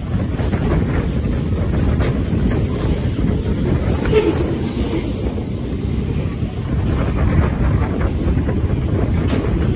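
Freight train wagons, steel and container wagons, rolling past close by: a steady low rumble of steel wheels on the rails.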